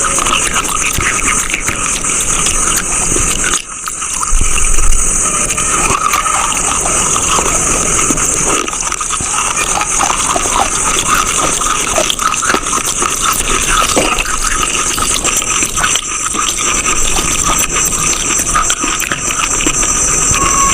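Close-miked crunching of a chalky mineral being bitten and chewed: a dense, continuous crackle, with a brief break about three and a half seconds in followed by the loudest crunch.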